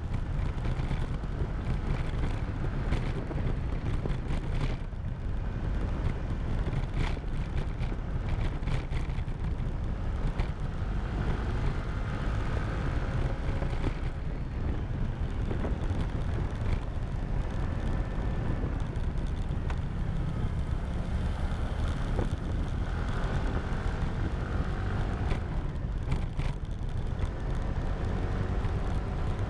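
Wind rushing over the camera's microphone on a moving motorcycle, a steady low rumble. A faint engine note underneath rises and falls in pitch as the speed changes.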